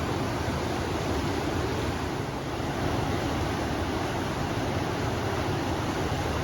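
River water rushing steadily, with wind blowing through it; an even, unbroken rush with a low rumble underneath.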